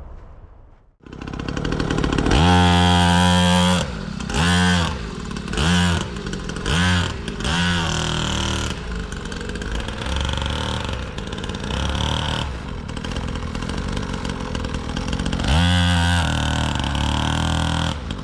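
Small gas dirt bike engine running and revving. It gives one long rev, then four short throttle blips about a second apart, runs steadily for several seconds, and revs again near the end.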